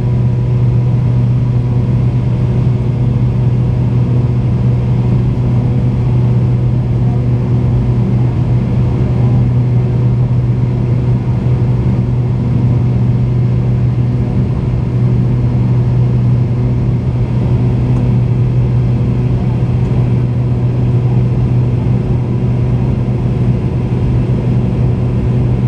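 Steady drone of a McDonnell Douglas MD-88 airliner's rear-mounted Pratt & Whitney JT8D turbofans, heard from inside the cabin: a deep, even hum with faint steady tones above it and no change in level.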